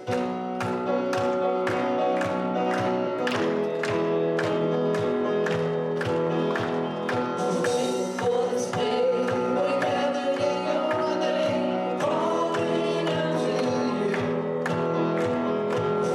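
Worship music with a steady drum beat of about two strokes a second under sustained chords; singing voices come in about halfway through.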